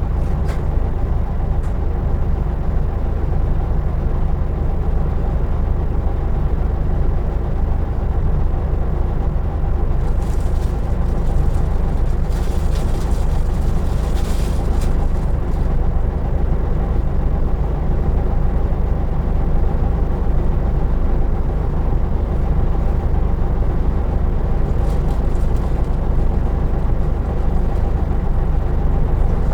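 Isuzu Erga Mio city bus (KK-LR233J1) heard from inside, its diesel engine giving a steady low drone. A soft hiss comes in for a few seconds around the middle.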